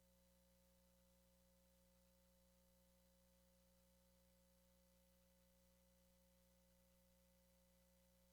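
Near silence: only a faint, unchanging hum made of a few fixed tones over a low hiss.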